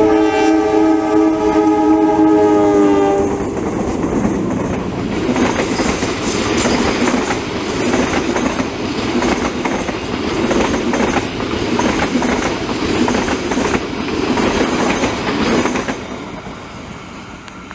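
Multi-note air horn of a passenger train double-headed by CC 203 and CC 204 diesel-electric locomotives, one long blast dipping slightly in pitch for about three seconds, then the train passing with wheels clattering over rail joints, fading out about sixteen seconds in.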